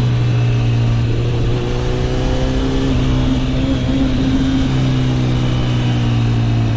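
Honda CB1000 Hornet SP's inline-four engine running steadily while being ridden. Its note rises slightly in pitch over the first few seconds, then holds.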